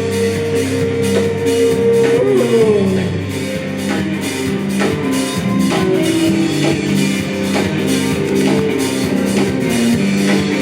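Live rock band playing an instrumental passage: guitar and drum kit over a steady beat. A long held note in the first couple of seconds slides down in pitch.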